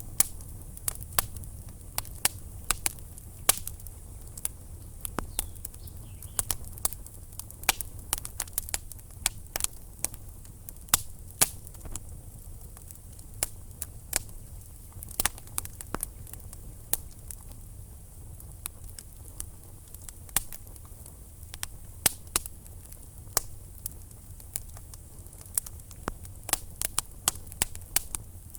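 Wood fire burning in a fireplace: logs crackling with irregular sharp pops and snaps over a low steady rumble of the flames.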